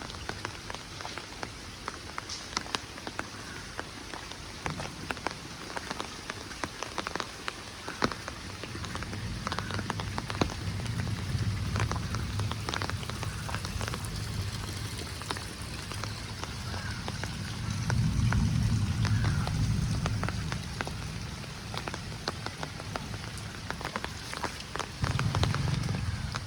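Rain falling steadily, with many separate sharp drop taps close by over an even hiss. A low rumble swells and fades several times, most strongly about two-thirds of the way through.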